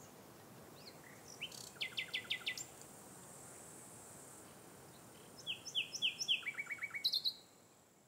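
A songbird singing two short phrases of quick descending notes, about a second and a half in and again about five and a half seconds in; the second phrase ends in a faster trill. Faint steady hiss underneath.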